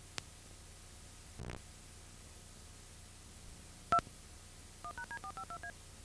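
Touch-tone dialing: a quick run of eight short two-note keypad tones about five seconds in. Before it, over a faint hiss, there is a click, a brief low buzz about a second and a half in, and a single loud short beep near four seconds.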